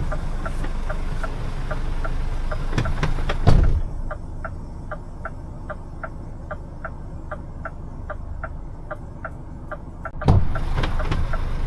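Truck cab door thumping shut, cutting the idling diesel engine down to a muffled hum inside the cab, where a steady ticking runs at about three a second; near the end the door opens again with a thud and the louder engine idle comes back.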